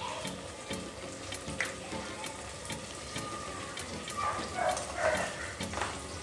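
Prawn and onion-tomato masala frying in a pressure cooker: a steady sizzle with scattered small pops and crackles.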